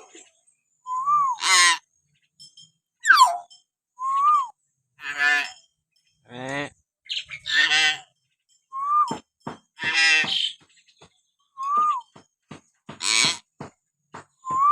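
Common hill myna calling in a run of separate calls: short, clear whistles that rise and fall, alternating with loud, harsh calls, and a few sharp clicks partway through.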